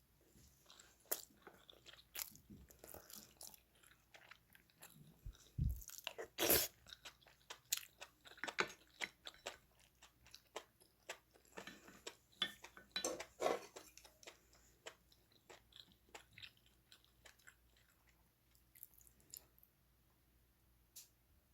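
A person eating close to the microphone: chewing, with irregular sharp clicks and taps, the loudest about six seconds in, thinning out over the last few seconds.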